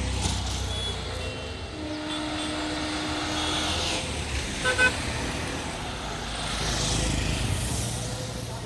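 Passing road traffic with a steady engine rumble. A held horn note sounds about two seconds in, two short horn toots come in the middle, and a vehicle goes by close near the end.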